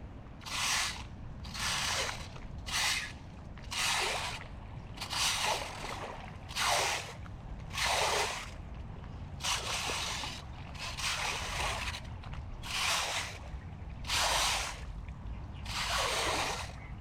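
Floodwater sloshing and splashing in repeated short surges, about one every second or so, over a steady low rumble.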